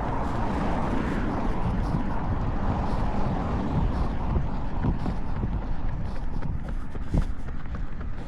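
Wind buffeting the microphone of a runner's camera, with a steady low rumble and faint, regular running footfalls beneath it.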